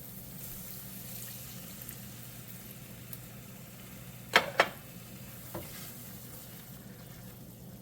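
Chili, tomato and anchovy sauce sizzling steadily in a pan on a gas stove, just after water has been added. There are two quick knocks, likely a utensil against the pan, about four and a half seconds in, and a lighter one a second later.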